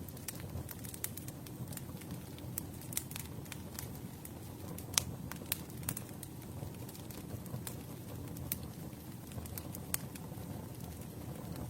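Campfire burning: wood crackling with irregular sharp pops, the loudest about five seconds in, over a steady low rumble of the flames.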